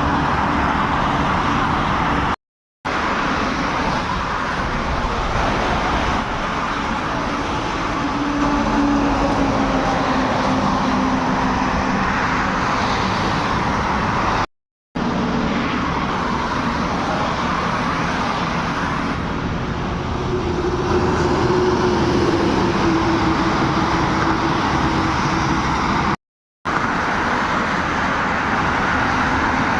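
Heavy cargo trucks driving on a road: a steady engine drone over tyre and road noise, its pitch slowly rising and falling as they pass. Three short silences break it where the clips cut.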